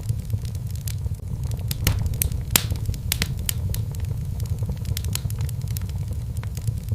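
Wood fire burning in a fireplace: irregular sharp crackles and pops over a steady low rumble, with one louder pop about two and a half seconds in.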